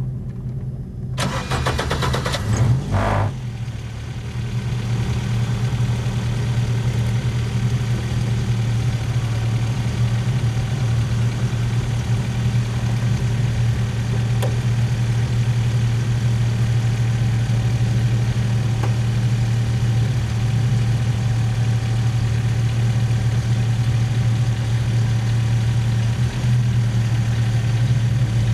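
Formula Ford single-seater's engine being started: the starter cranks for about two seconds, the engine catches, then it idles steadily.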